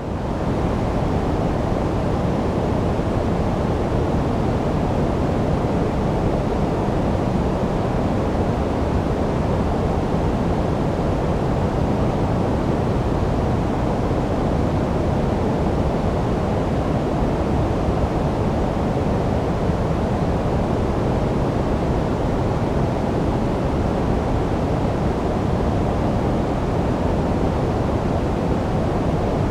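Steady generated sleep noise: a constant, even rush with no changes, weighted toward the low and middle pitches rather than flat white noise.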